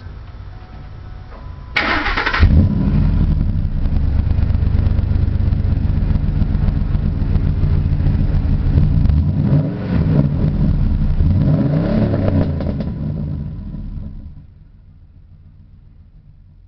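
Ford F-150 V8 cranked by the starter and firing up about two seconds in through a straight-through Borla Turbo XL muffler with a Magnaflow X-pipe and no catalytic converters, settling into a deep, loud idle. It is revved a few times near the end, then the sound drops away sharply; a little crackle is heard in the exhaust.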